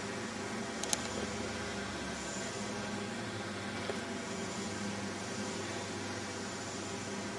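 Steady mechanical hum and hiss, with a short double click about a second in and a faint tick near four seconds.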